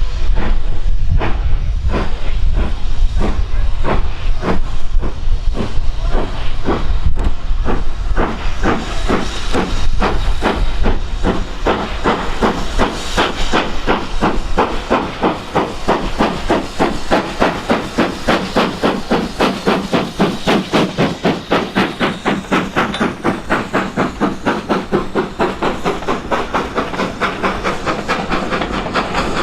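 Steam locomotive exhaust beats with hissing steam. The chuffs quicken steadily from about two to about four or more a second as the engine accelerates its train away.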